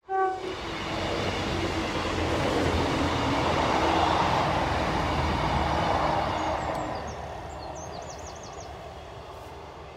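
Class 158 diesel multiple unit passing close by: the rumble and wheel noise of the train peaks in the middle, then fades from about seven seconds in as it draws away.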